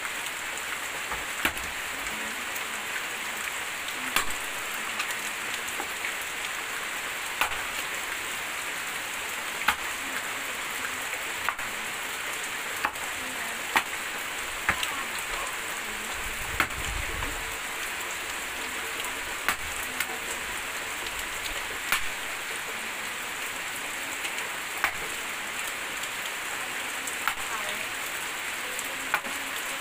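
Steady rain, with sharp chopping knocks of a long-handled blade striking into a log, irregularly every one to three seconds.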